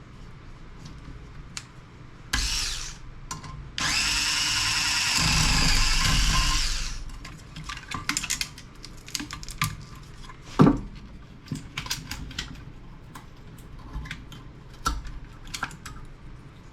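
Power drill spinning in a short burst, then running steadily for about three seconds, followed by scattered clicks and knocks of parts being handled, one knock louder than the rest.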